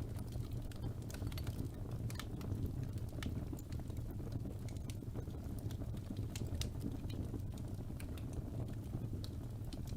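Wood fire burning, with a steady low rumble of the flames and irregular sharp crackles and pops from the burning logs.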